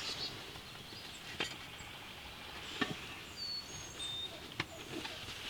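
Songbirds chirping and whistling in the woods, with three sharp clicks a second or more apart.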